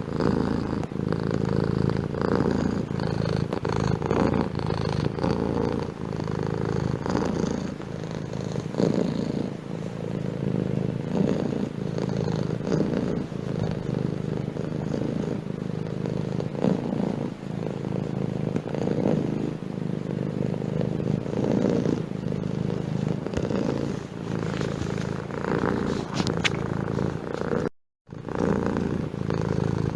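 Domestic cat purring steadily and close up, in a continuous gently pulsing drone. It breaks off for a split second near the end.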